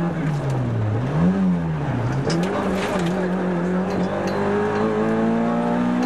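Rally car's engine heard from inside the cabin. The revs fall away into a bend, with a quick blip of throttle about a second in, then the engine pulls steadily, rising in pitch over the last few seconds, with a few rattling clicks in the middle.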